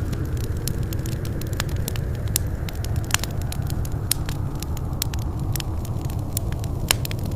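Wood fire burning in a fireplace: a steady low rumble of flames with frequent sharp crackles and pops, a few of them louder, one near the end.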